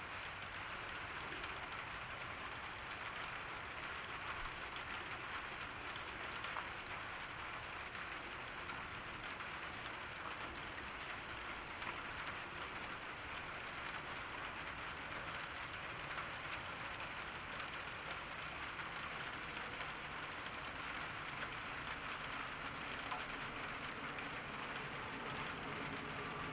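Steady summer rain falling, a dense, even patter of drops that keeps up without a break.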